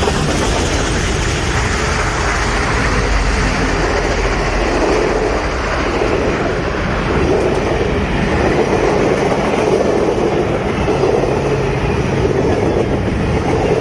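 Union Pacific Big Boy 4014 steam train passing at speed: a loud, steady rumble and rattle of the train rolling by on the rails.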